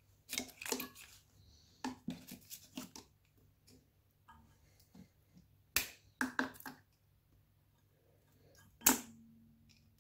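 Clicks and clacks of hands and tools working at a stubborn plastic harness connector on a small engine, coming in short clusters, with one sharp clack near the end that rings briefly.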